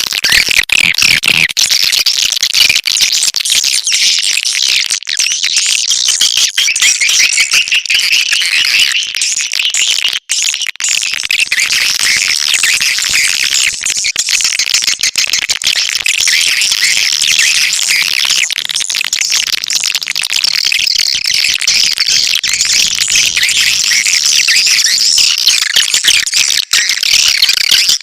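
Swiftlet call recording of the kind played to lure swiftlets into a bird house: a loud, dense, continuous stream of high, rapid twittering chirps.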